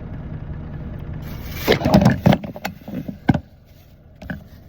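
A quick burst of clattering and knocks, like things being handled and set down in a small cab kitchen, starting about one and a half seconds in. A steady low hum runs under it and cuts off with a last knock partway through.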